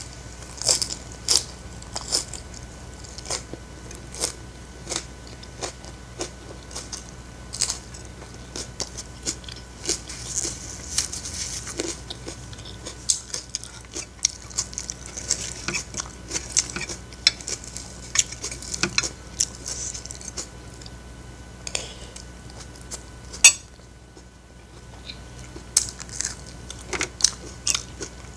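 Close-up chewing and crunching of fried rice wrapped in a raw napa cabbage leaf, with many short crackles and wet mouth clicks. Now and then a metal spoon clinks on a ceramic plate, with one sharp click a little after two-thirds of the way through.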